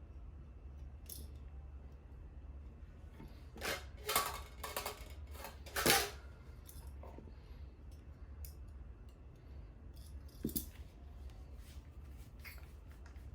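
Small hard, metallic-sounding items being handled and set down, with a cluster of clatters and clinks about four to six seconds in and a lone click later. A low steady hum runs underneath.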